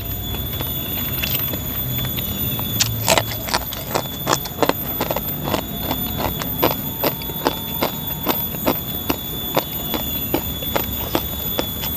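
Close-up chewing of crunchy food, spicy crispy dendeng balado and snacks, with sharp crunches about two to three a second. A steady high-pitched tone runs underneath.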